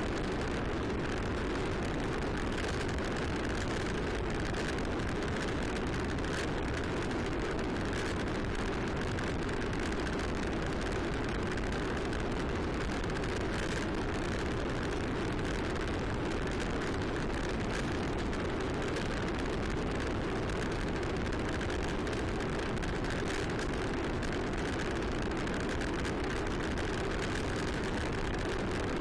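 Steady rush of wind on the microphone and rolling tyre noise from a bicycle riding along a trail.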